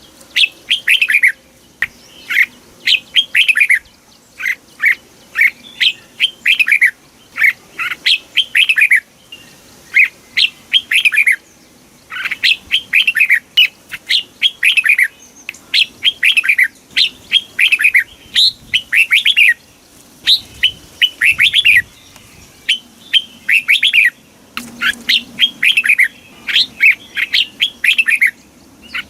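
Red-whiskered bulbul singing: short, bright phrases of quickly falling whistled notes, repeated about once a second with brief pauses. It is the southern 'master song' style used to train and rouse caged bulbuls.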